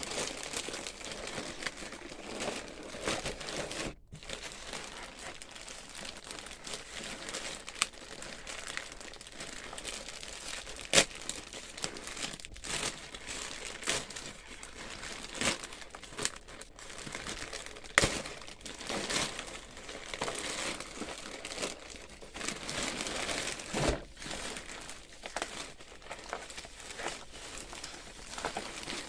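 Packaging crinkling and rustling as a parcel is unwrapped and handled up close, with a few sharp clicks and snaps, the loudest about eleven and eighteen seconds in.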